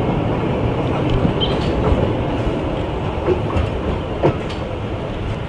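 Narrow-gauge railway carriages rolling past and moving away, their wheels clicking and rumbling on the rails with a few sharper knocks; the sound eases off slowly.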